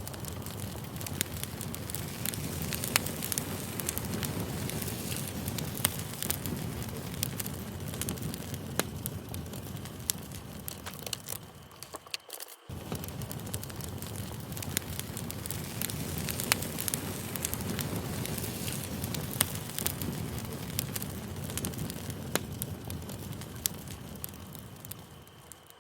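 Campfire crackling: a steady low rumble of burning wood with frequent sharp pops and snaps. It drops out briefly about halfway through, then resumes.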